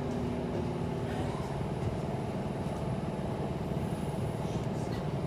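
Electric suburban train running between stations, heard from inside the carriage: a steady rumble of wheels on track with a constant motor hum.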